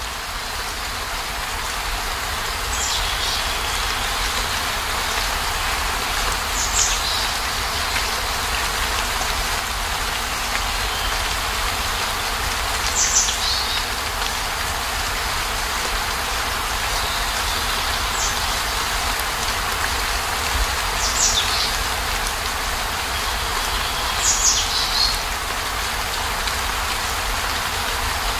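Steady heavy rain, a dense even hiss with a low rumble underneath. Six brief high chirps, each falling in pitch, come every few seconds over the rain.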